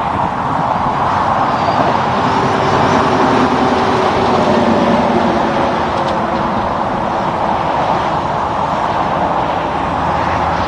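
Steady road traffic noise: tyre roar and engine sound of passing vehicles, with a faint engine tone coming and going in the middle.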